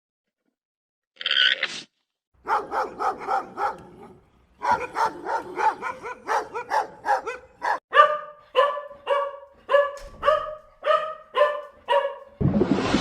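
A dog barking over and over in a long, even run of short barks, about two to three a second, after one short high yelp near the start. A burst of rushing noise comes in near the end.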